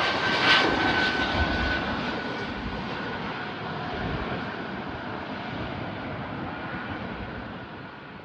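Fixed-wing aircraft's engines fading steadily as the plane moves away. There is a thin high whine that sinks slightly in pitch over a broad rush of engine noise.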